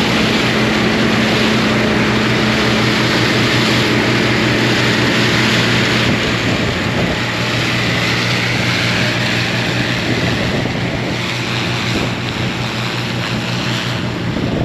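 John Deere 4400 combine running steadily while harvesting soybeans: a constant engine drone under a wide rushing mechanical noise, getting slightly quieter in the second half.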